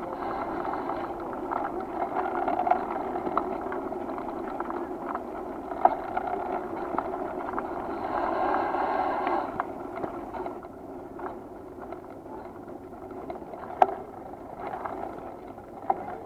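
Steady rushing road noise from a bicycle ride, with frequent small rattles and knocks. A sharp knock about six seconds in and a louder one about fourteen seconds in stand out.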